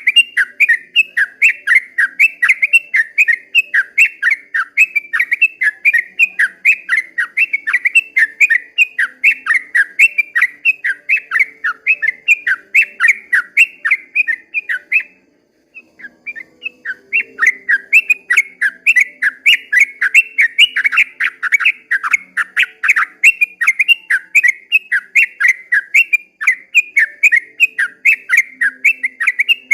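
Yellow-vented bulbul singing a long, fast run of short whistled notes, about four a second, with a brief pause about halfway through.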